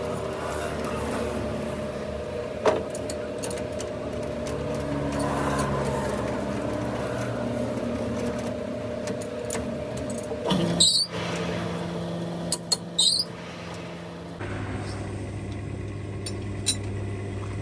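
An engine running steadily, with scattered metallic clicks and a couple of louder clatters. The engine's note changes abruptly near the end.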